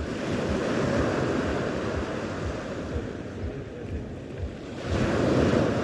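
Sea waves washing onto the shore, one surge right at the start and another about five seconds in, with wind buffeting the microphone.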